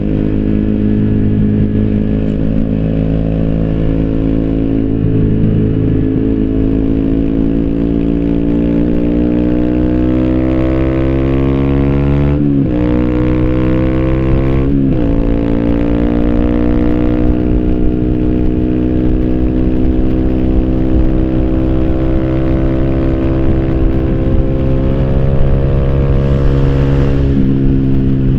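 2014 Yamaha YZF-R125's single-cylinder four-stroke engine through an Arrow Thunder slip-on exhaust with the dB-killer fitted, pulling up through the revs under way. Two quick upshifts about twelve and fifteen seconds in, each a sharp drop in pitch, then the engine pulls on again in the next gear.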